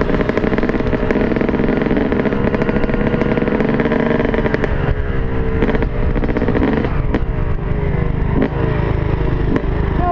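Dirt bike engine running at a steady pitch for the first few seconds, then dropping and changing pitch as the rider eases off and blips the throttle, with wind rumble on the microphone throughout.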